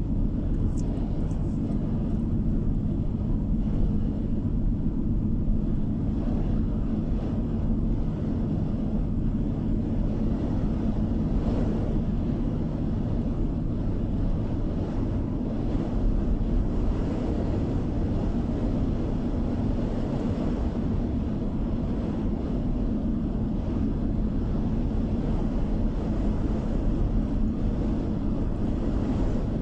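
Steady drone of a car driving along the road, heard from inside the cabin: engine and tyre noise with a constant low hum.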